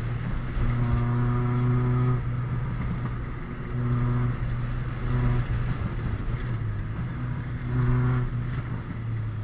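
Honda Civic's B20 VTEC four-cylinder engine pulling under throttle on a spirited drive, its note holding a fairly steady pitch and breaking off briefly about six times as the throttle is lifted or a gear is changed.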